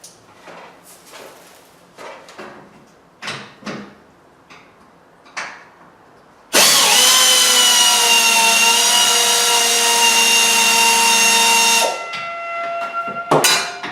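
A few scattered knocks and clanks, then, about six and a half seconds in, a cordless power drill runs steadily at speed for about five seconds while the old garage door's track rails are unbolted; it drops off, with a short burst just before the end.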